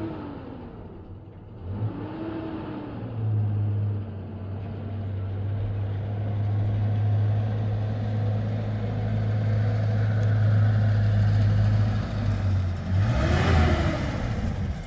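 An engine running steadily, briefly rising and falling in pitch twice, near the start and near the end.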